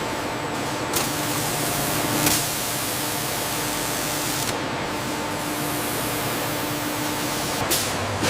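Steady, loud hiss with a faint hum underneath, broken by brief sharper swishes about a second in, a little past two seconds, and near the end.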